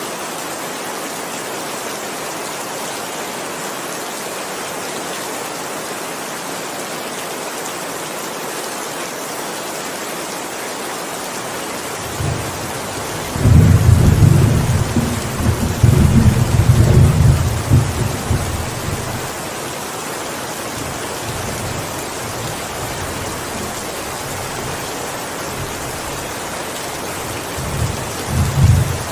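Steady heavy rain, with a long low thunder rumble beginning about midway and lasting several seconds, and a shorter rumble of thunder near the end.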